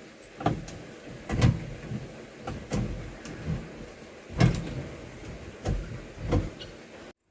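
Column-shift gear lever and linkage of a Fiat 1100 Delight being worked through the gears by hand, a series of mechanical clunks and clicks, one or two a second. The sound cuts off abruptly just before the end.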